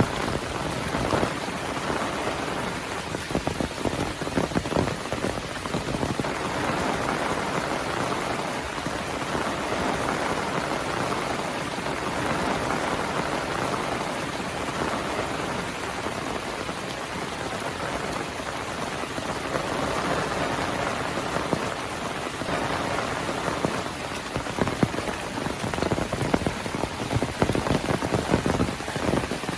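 Heavy rain falling steadily, a dense hiss of rain with many sharp, close raindrop hits pattering through it, thickest near the start and near the end.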